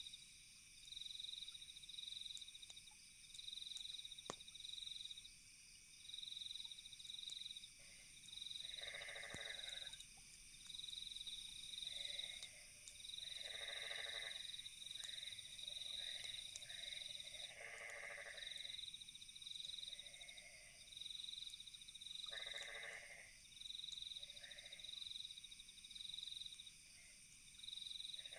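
Night insect and frog chorus: crickets trilling in repeated bouts about a second long over a steady high insect drone, and from about a third of the way in, frogs croaking in short calls at irregular intervals. A few faint pops from a campfire.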